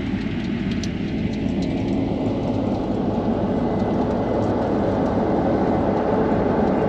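Combine harvester running, heard from inside the cab: a steady, dense engine and machinery rumble that builds slightly in level as it goes.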